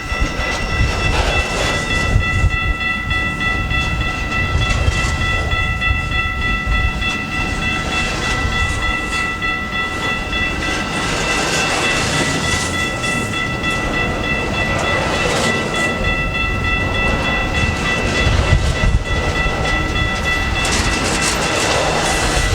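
Freight train shunting past under CP Rail EMD diesel power: a steady low rumble with wheels clattering over the rail joints, and a steady high whine held throughout.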